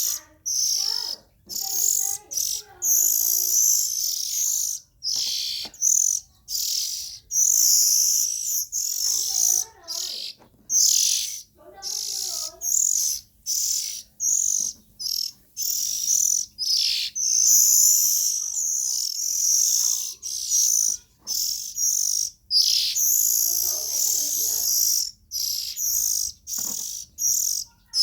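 Young oriental magpie-robin calling: a long run of short, high, hissy chirps with brief gaps between them, broken now and then by a few lower, warbled phrases.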